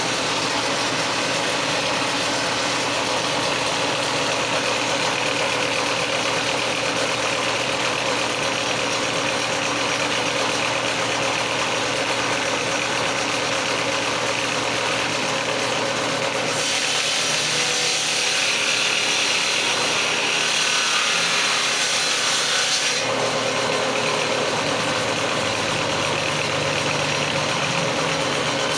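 A power woodworking tool's motor running steadily while working a wooden door jamb, with a stretch of harsher, hissier cutting from about 17 to 23 seconds in.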